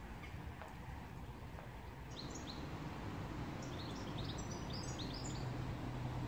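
Songbird singing: a quick run of short, high chirps starting about two seconds in, over a steady low outdoor rumble.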